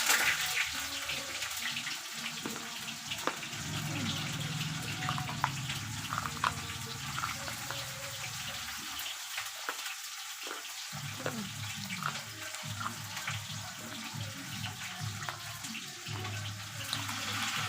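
Slate pencils being bitten and chewed close to the microphone: a steady run of small, sharp crackles and crunches.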